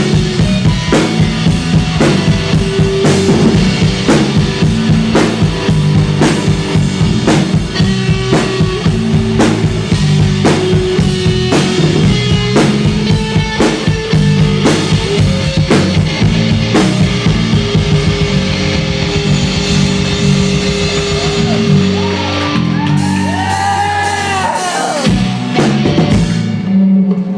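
Live rock band playing an instrumental passage on drum kit, bass and electric guitar. About 22 seconds in the drums drop out and the song winds down on held, bending notes.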